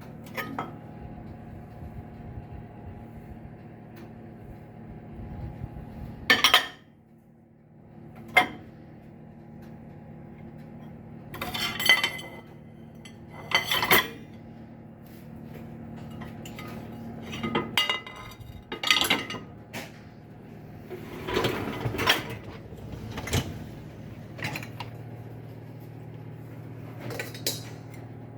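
Dishes and cutlery clinking and clattering in a dishwasher as the washed load is handled, in about ten separate clatters over a steady hum.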